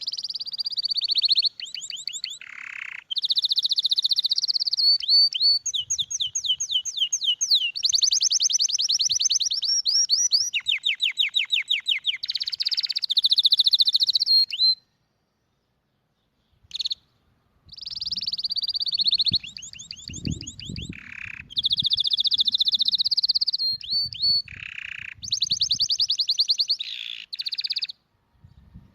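Domestic canary singing two long song phrases of fast trills and rolls, each a run of rapidly repeated high notes switching from one trill type to the next. About halfway there is a pause of roughly three seconds broken by a single chirp.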